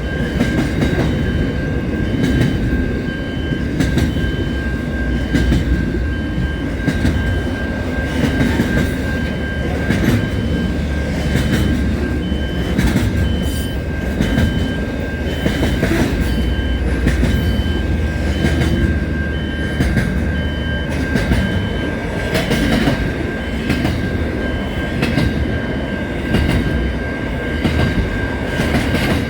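A train running on rails with a low rumble, irregular clicks and knocks of wheels over the track, and a steady high-pitched whine.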